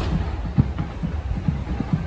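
New Year fireworks going off: a sharp crack right at the start, then a run of low booms, several a second, over a steady rumble.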